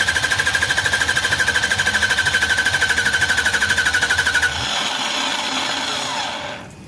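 Electric starter motor cranking the rebuilt Toyota forklift engine: a rising whine that settles into a steady high whine with fast, even pulsing. The starter cuts off about four and a half seconds in and the sound winds down with a falling whine. The owner says the starter isn't working nicely.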